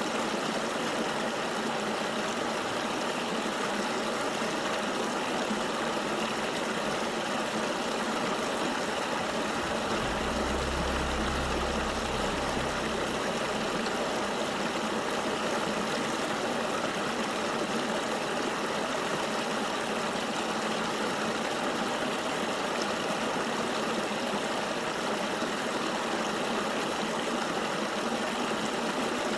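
Steady rushing of a flowing river, an even hiss with little bass. A brief low rumble comes in about ten seconds in and lasts a few seconds.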